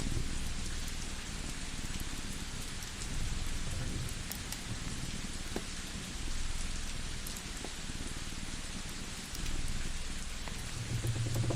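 Cat purring, a low rumble that swells and fades with each slow breath, over a crackling wood fire giving scattered sharp pops above a steady hiss.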